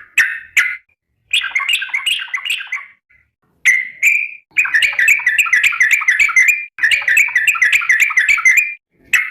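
A yellow-vented bulbul (trucukan) calling to its companions. A few short bubbly notes come first, then long, rapid rolling runs of chattering notes: the extended "ropel" song.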